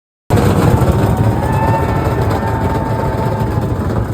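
A vehicle engine running with a loud, steady, low rumble. The sound cuts in suddenly right at the start.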